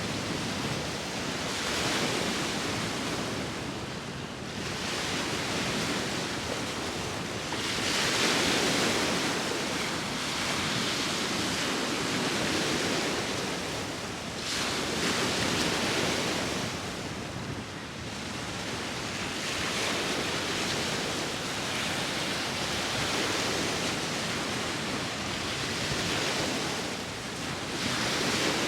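Ocean waves breaking and washing in, the surf swelling and falling back every few seconds, with wind blowing over it.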